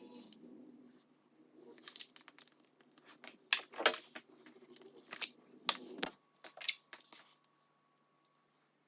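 Irregular crinkling and crackling handling noises with sharp clicks, stopping about seven seconds in.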